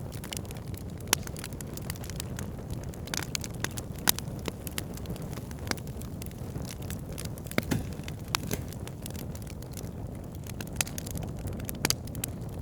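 Campfire of burning wood crackling, with scattered sharp pops and snaps over a steady low rumble.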